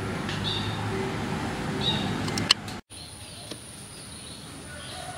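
Outdoor background noise with birds chirping now and then. About two and a half seconds in there is a sharp click and the sound cuts off. It comes back quieter, with a faint high steady whine under the chirps.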